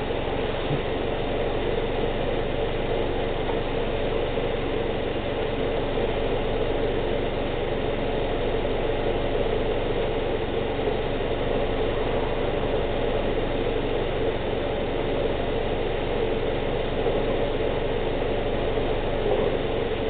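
Subaru Outback's engine idling steadily while the CVT fluid is held at temperature and its level is checked and topped up.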